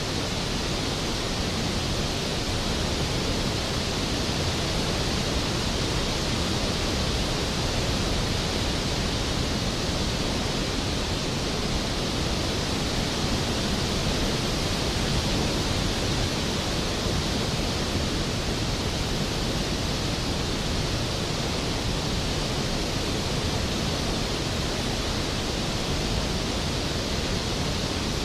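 Skógafoss waterfall: a large waterfall's steady, even roar of falling water.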